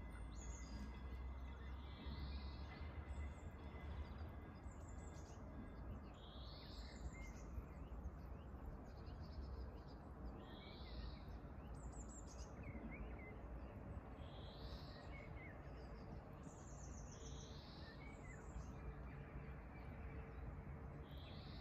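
A small songbird singing the same short, high phrase over and over, about every three to four seconds. Under it runs a steady outdoor hiss with a low rumble.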